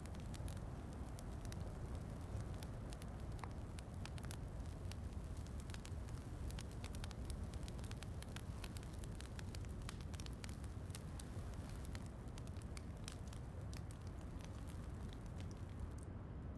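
Wood fire crackling, with frequent small sharp pops at irregular intervals over a steady low rumble.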